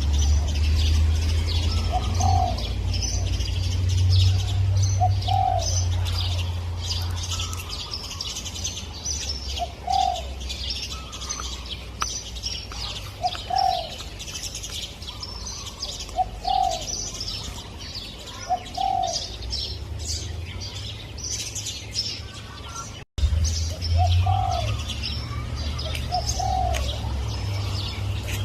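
Spotted dove cooing, a short note repeated every two to three seconds, over the constant high chirping of small songbirds. A low rumble runs under the first several seconds and returns after a brief dropout.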